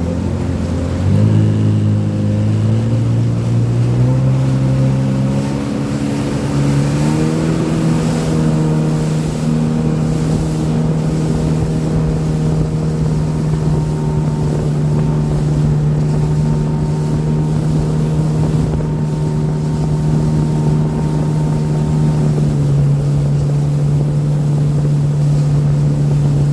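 Jet ski engine accelerating after the throttle is opened, its pitch climbing in steps over the first several seconds, then running steadily at speed. The pitch dips slightly about three-quarters of the way through.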